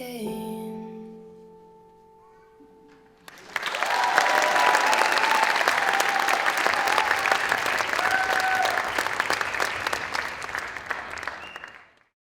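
The song's last held notes die away, then about three seconds in an audience starts applauding and cheering, with a few high whoops over the clapping. The applause cuts off suddenly near the end.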